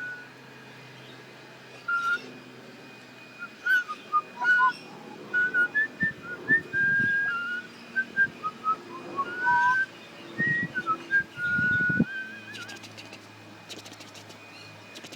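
A string of short whistled notes, most held at one pitch and a few sliding, broken by a few low thumps. Near the end the whistling stops and a run of fast clicks follows.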